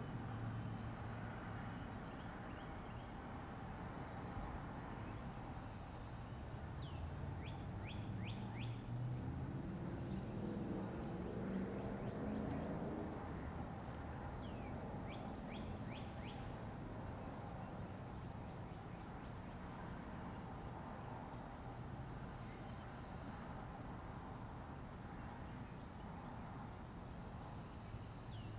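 Outdoor ambience: a songbird giving quick runs of short, falling chirps three times, over a steady low background rumble that swells briefly near the middle.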